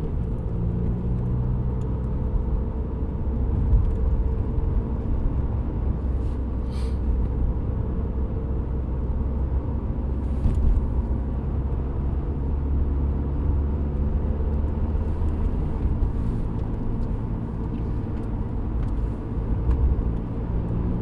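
Inside the cabin of a 2007 VW Golf GT TDI on the move: its 2.0-litre BKD diesel runs at steady revs under a low, even road rumble. The car has a humming vibration tied to engine speed, which the owner suspects comes from the dual-mass flywheel.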